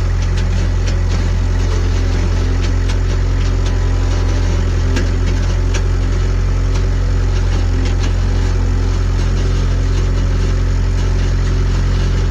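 A heavy-equipment engine idling steadily, a deep even hum, with a few faint clicks over it.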